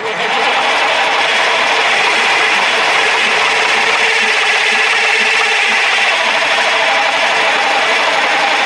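Cummins 903 V8 diesel in a Ford Louisville truck on its second start attempt: a loud, steady mechanical rasp that begins abruptly just before and holds without letting up.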